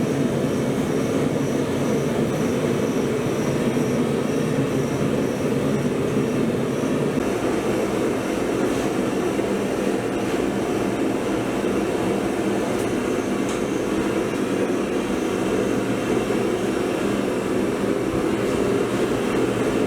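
Big Blu 50-ton hydraulic forging press running with a steady, loud mechanical drone and a faint high whine pulsing about twice a second, while hot steel is squeezed. The drone cuts off at the very end.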